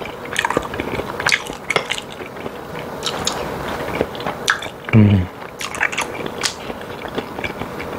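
Close-miked chewing of a chewy, spicy mouthful: wet mouth smacks and soft clicks throughout, with a short low hum of 'mm' about five seconds in.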